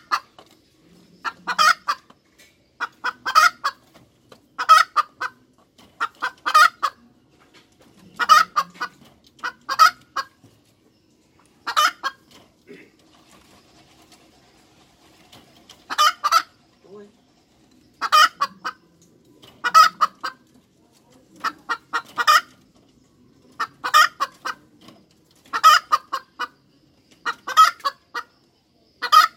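Hen cackling: loud, repeated clucking calls about every second and a half to two seconds, with a few seconds' pause midway.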